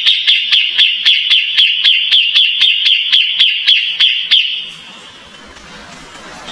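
Kapas tembak bird singing a fast run of sharp, repeated notes, about five or six a second, which stop about four and a half seconds in, leaving only faint background noise.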